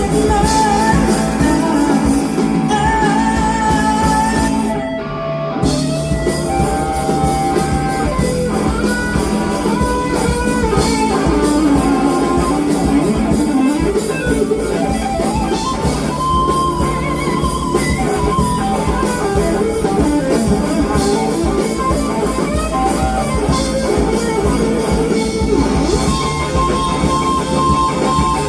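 Rock band playing, with a guitar solo of sustained, bending lead lines over drums and bass. The music briefly thins out about five seconds in.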